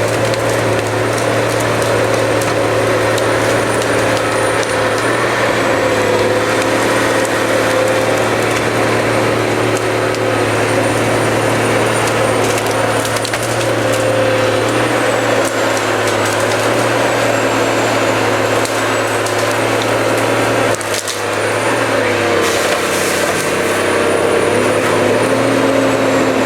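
Cut-to-length harvester working under steady load: its engine runs at a constant pitch with a thin high whine above it, while wood cracks and splinters as the harvester head works the tree. A single sharp crack stands out about three-quarters of the way through.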